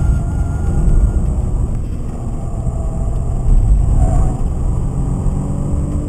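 BMW 528i's M52 2.8-litre straight-six, standard and with a manual gearbox, heard from inside the cabin while driven hard, under a heavy low rumble of road and wind noise. Its pitch climbs slowly near the end as the engine revs up.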